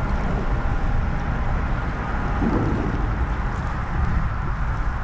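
Steady wind buffeting the microphone, with a constant low rumble.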